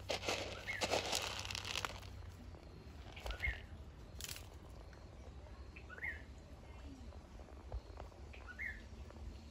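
A bird repeating a short chirp about every two and a half seconds. In the first two seconds a louder rustling, crinkling noise, and a brief hiss about four seconds in.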